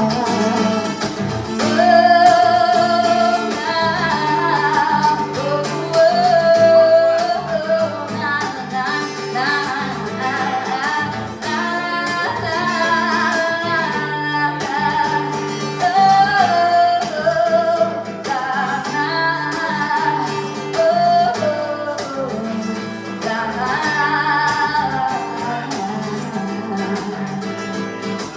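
Live acoustic guitar strummed under a singer's voice carrying a melody.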